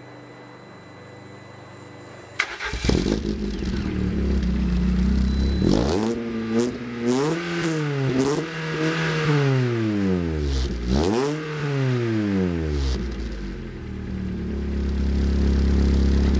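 Lada Kalina 2 Sport's engine through a straight-through stainless steel muffler. After a faint hum, it comes in loud and sudden about two and a half seconds in. It is then revved several times, each rev rising and falling, and settles back to a steady low idle near the end.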